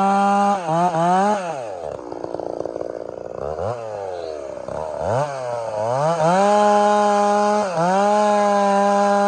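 Two-stroke chainsaw with a 32-inch bar running at full throttle with a steady high note. It briefly dips in speed, falls back to idle about two seconds in, is blipped once, then revs back up to full throttle around six seconds. There are short dips again near the end.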